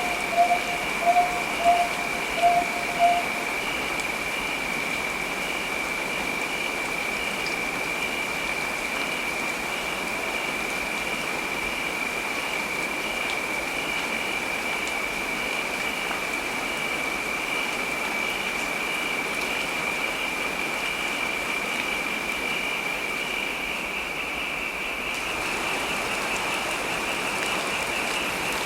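Steady heavy rain, heard as an even hiss. A steady high-pitched tone runs over it throughout. Near the start there is a quick run of about five short beeps.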